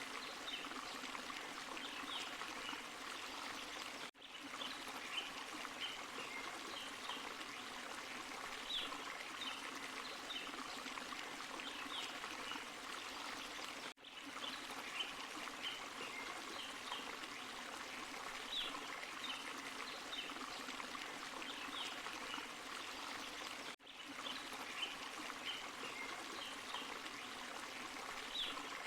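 Forest stream and small waterfall running steadily. The sound dips out briefly about every ten seconds, where the same short recording repeats in a loop.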